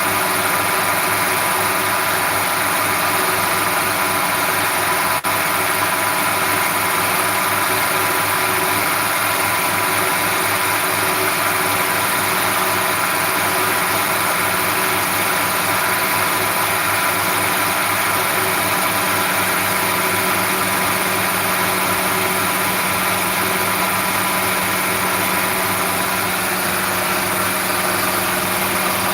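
A machine running steadily at a constant speed, an engine-like hum holding the same pitch throughout, with a single brief click about five seconds in.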